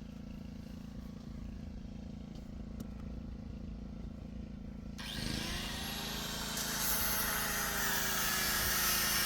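A steady low engine hum, then about five seconds in a louder hissing machine noise with a thin whine starts suddenly and builds.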